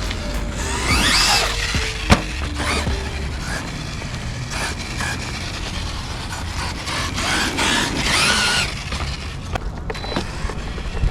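Losi LMT RC monster truck's brushless electric motor whining up in pitch as it accelerates, twice, with a sharp knock about two seconds in, over background music.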